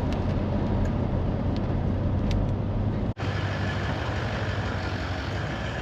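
Toyota LandCruiser 200 series on the move: a steady low engine and road drone. There is a momentary break about three seconds in.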